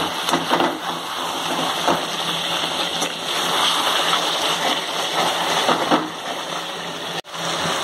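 Chicken frying and sizzling in the oil it has released in a kadai, with a metal spatula scraping and stirring the pieces against the pan. The sound breaks off for an instant near the end.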